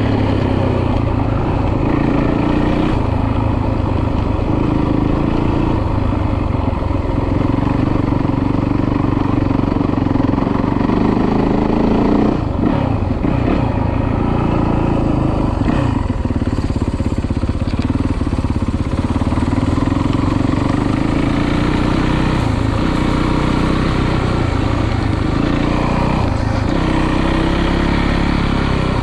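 Dirt bike engine running under load, its pitch climbing and dropping again and again as the rider accelerates and shifts.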